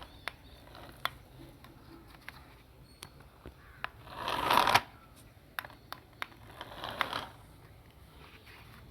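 Scattered light clicks and taps, with a short rustling burst about four and a half seconds in and a smaller one about seven seconds in.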